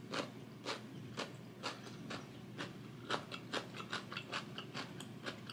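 Close-miked chewing of a mouthful of spicy instant noodles with cheese: soft, irregular wet mouth clicks, about three a second.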